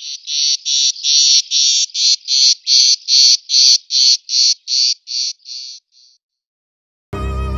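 A bird's call: a run of about fifteen evenly spaced high, rasping notes, about two and a half a second, fading away over the last few. Violin music begins near the end.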